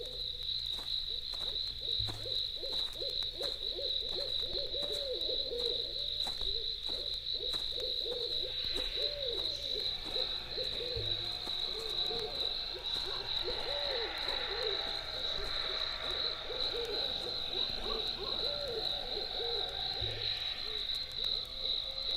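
Night ambience sound effect: a steady high-pitched cricket trill with owl hoots repeating over it. A dull low thud comes about every nine seconds.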